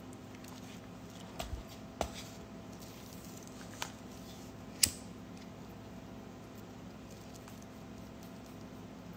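Low room tone with a faint steady hum, broken by a few scattered short clicks and taps, the sharpest about five seconds in.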